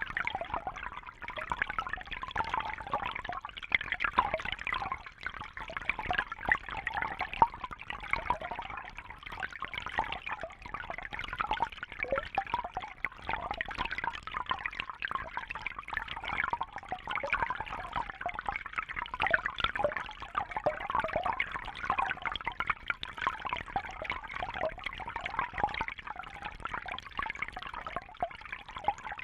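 Running water trickling and splashing steadily, a dense patter of small droplets and bubbles that goes on without a break.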